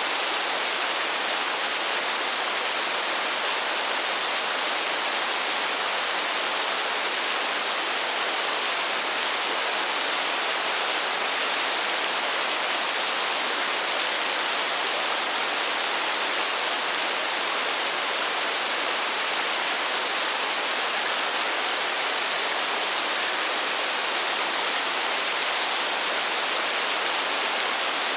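Steady rain falling: an even, unbroken hiss that stays at the same level throughout.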